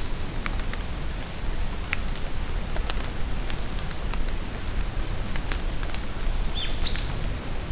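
Steady rain falling in a forest, with scattered drops ticking close by. A bird gives a few short high chirps about halfway through and a quick sweeping call near the end.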